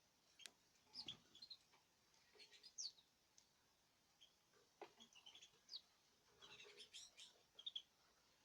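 Small cage birds giving faint, short, scattered chirps, with a few sharp clicks among them.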